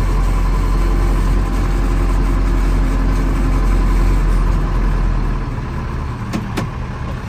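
Fermec backhoe's diesel engine running steadily; a little past five seconds the engine note drops and gets quieter, and two sharp clicks follow near the end.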